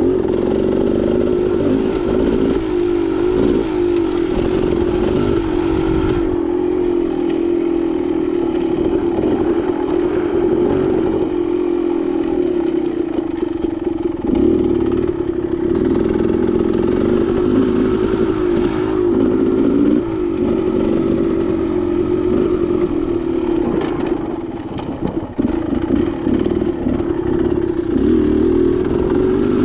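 Dirt bike engine running under constantly changing throttle, its pitch wavering up and down, easing off briefly about four-fifths of the way through.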